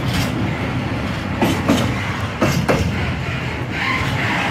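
Empty container flat wagons of a freight train rolling slowly past, with a steady low rumble. The wheels clack over a rail joint, two pairs of clacks about a second apart as each bogie crosses.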